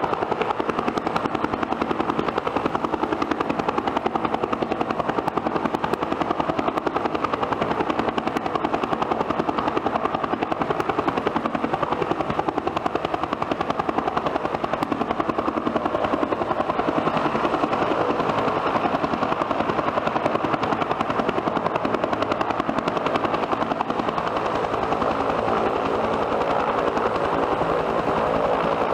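Bell turbine helicopter running steadily: engine and rotor noise with a fast, even beat of the blades.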